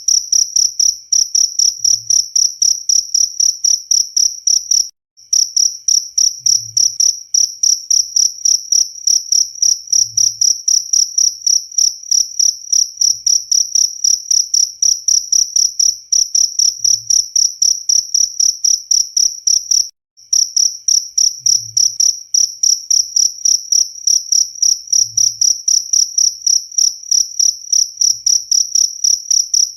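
Cricket chirping in a fast, even train of high-pitched pulses on one steady pitch, cutting out briefly twice, about five and twenty seconds in.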